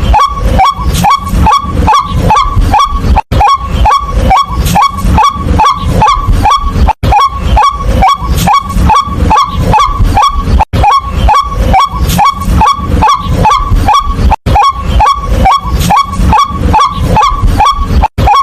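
White-breasted waterhen calling a rapid, repeated single note, about three calls a second, broken by a brief silent gap about every four seconds.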